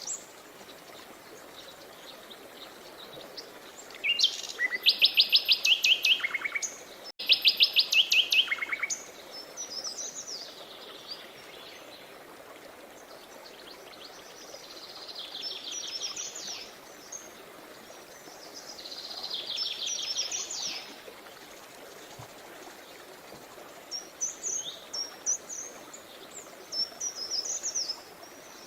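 Songbirds singing: loud rapid trills of repeated notes about four to nine seconds in, softer trilled phrases later, and quick chirps near the end, over a steady rush of running river water.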